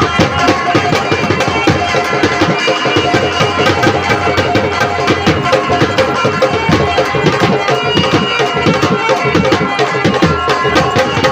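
Live folk stage music: a hand drum beaten in a fast, steady rhythm under a held melody on an accompanying instrument.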